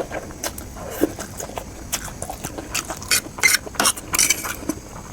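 Close-miked eating sounds: chewing with quick wet mouth clicks and smacks, busier in the second half.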